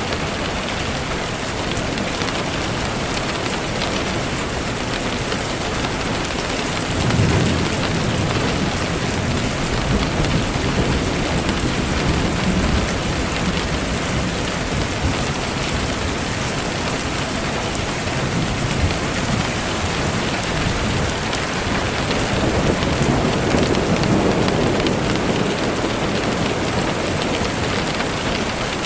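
Steady rain falling, with a low rumble of thunder swelling about a quarter of the way in and again later on.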